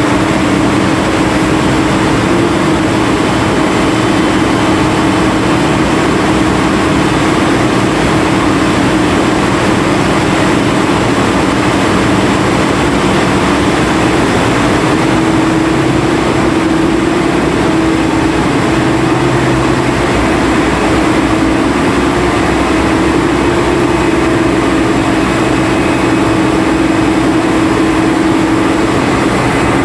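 Steady, loud running of the engine and machinery on an ore-suction dredge boat, an unbroken mechanical drone.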